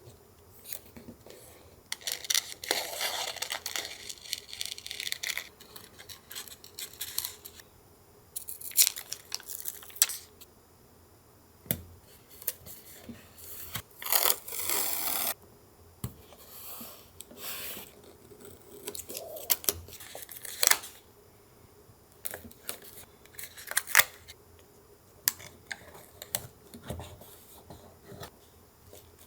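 Paper and stationery being handled for a collage: bursts of paper rustling or tearing, with scattered sharp clicks and taps.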